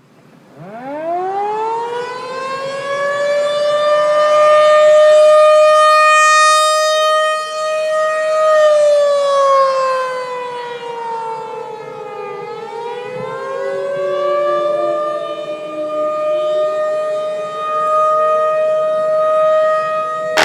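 Civil-defense-type warning siren winding up to a steady wail, sagging in pitch about eight seconds in, then winding back up and holding steady.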